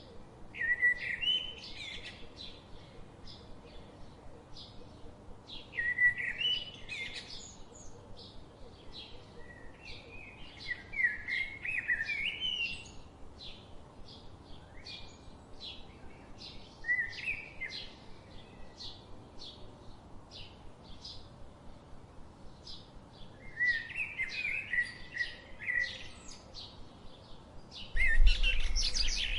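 Songbirds singing: short warbling phrases every few seconds over a steady series of brief high chips about twice a second. Near the end a louder burst with a low rumble breaks in.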